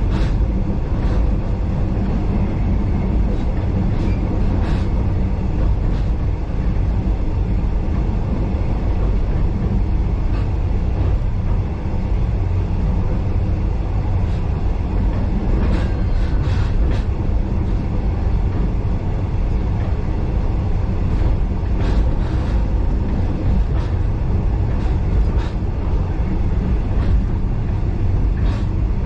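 Steady low rumble of a steam-hauled heritage passenger train running along the track, heard from on board, with scattered sharp clicks and clacks of the wheels over the rails.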